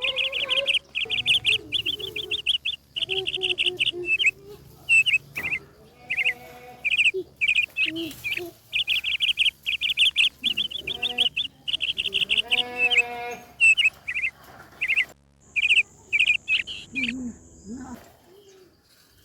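Songbirds chirping in quick trilled phrases, one phrase after another, with fainter lower calls beneath; the sound cuts off abruptly near the end.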